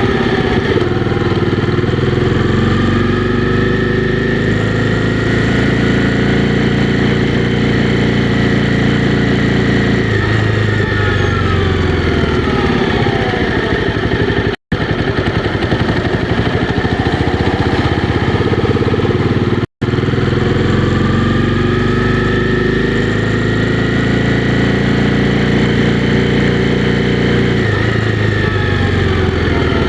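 Honda CB300R's single-cylinder engine under way, its pitch climbing slowly as the bike speeds up and then falling as it slows, twice over. The sound drops out for an instant twice midway.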